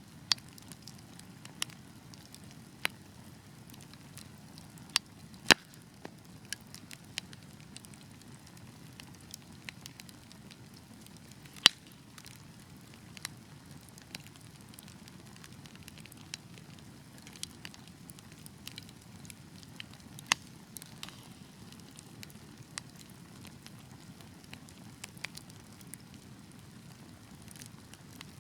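Wood fire crackling: a low steady rush of flame under sharp, irregular pops and snaps from the burning logs, the loudest about five and a half, twelve and twenty seconds in.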